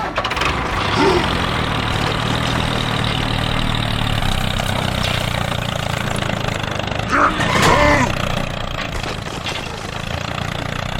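A small engine running steadily at idle, with a few brief higher-pitched sounds about a second in and again around seven to eight seconds in.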